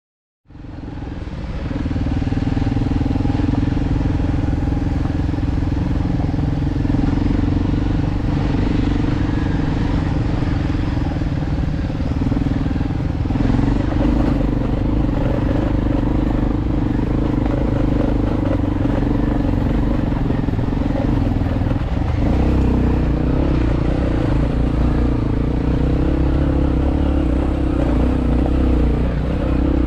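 Dirt bike engine running at a fairly steady speed, its pitch shifting slightly a few times.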